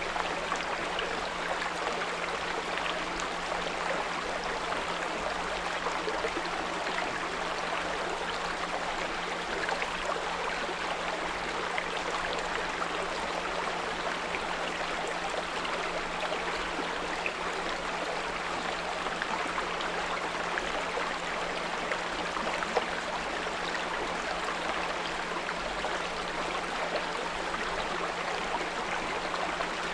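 Small brook running steadily, a dense even rush of babbling water, with a steady low 174 Hz pure tone held underneath.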